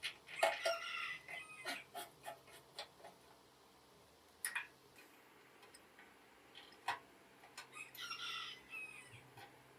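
A chicken calling twice, short pitched calls about half a second and about eight seconds in, among scattered sharp clicks and taps.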